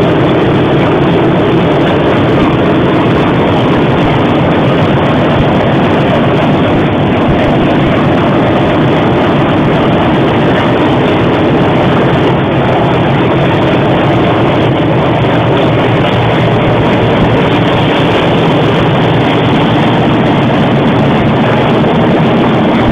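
Steady, loud running noise of a train in motion, recorded on a mobile phone.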